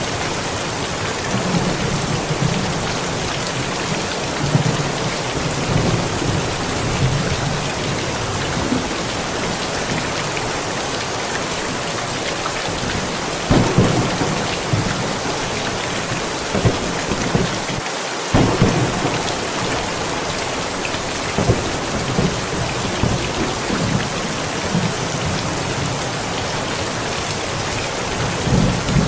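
Steady heavy rain with thunder rumbling low; a few sharper, louder claps of thunder come from about halfway through and again near the end.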